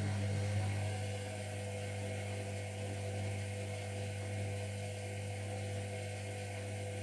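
Zerowatt/Hoover Performa 1000 washing machine running mid-wash: a steady, even hum with no pauses or changes.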